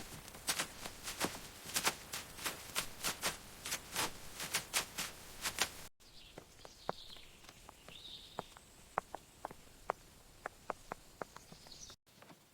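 A rapid run of loud, sharp knocks, several a second, that breaks off suddenly; then a softer, sparser run of light, higher-pitched ticks.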